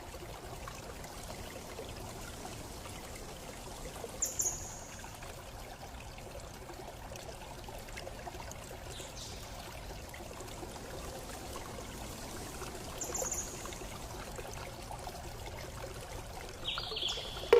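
Steady running water, like a stream, with a short high chirp about four seconds in and again about thirteen seconds in.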